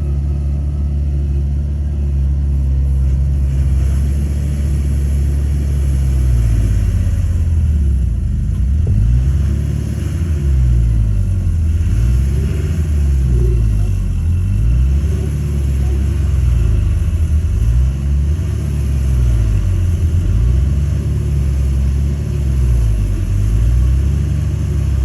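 Heavy diesel bulldozer engine running with a deep, steady drone. From about eight seconds in, the engine note swells and fades in a slow, regular rhythm about every two seconds.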